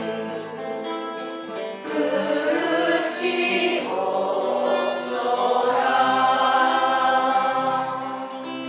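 Singing to acoustic guitar in a slow folk-song melody, rising to a long held note that fades near the end.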